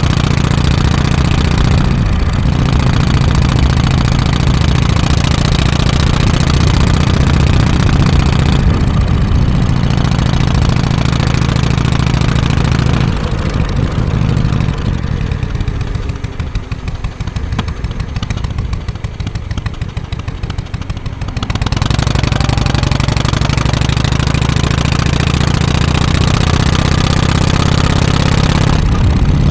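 Harley-Davidson FXSTC Softail Custom's 1340 cc Evolution V-twin running through its exhaust with a steady note. A little past halfway it drops to a quieter, slower beat of separate firing pulses for several seconds, then picks back up to the steady note.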